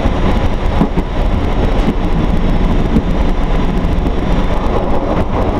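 Diesel railcar train running on the track, heard from the driver's cab: a steady rumble of engine and wheels on rail, with a few faint knocks.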